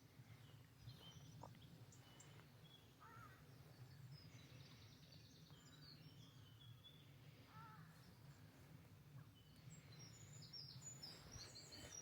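Faint birdsong: scattered chirps and short phrases from several small birds, busier near the end, over a low steady rumble.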